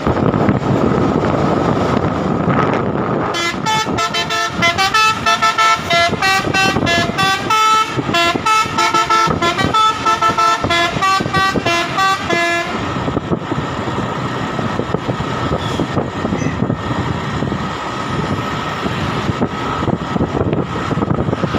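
Truck running on the road, with a multi-tone musical horn sounding a fast melody of short, changing notes for about nine seconds, starting a few seconds in.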